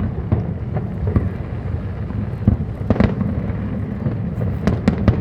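Aerial fireworks going off: a steady low rumble of distant bursts, broken by sharp bangs. The loudest bang comes about three seconds in, followed by a quick run of three bangs near the end.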